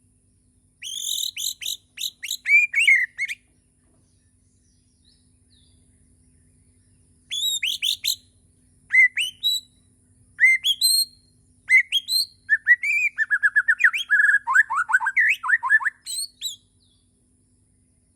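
A Bornean white-rumped shama (murai batu) singing: bursts of clear, quickly sliding whistles and chips, a pause of several seconds, then a longer run of phrases that ends in a fast rattling trill.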